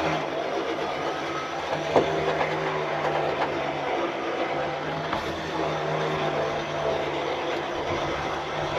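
Electric winch running under load as it pulls a vehicle onto a trailer. It hums steadily, pauses briefly about four seconds in, and there is a sharp click about two seconds in.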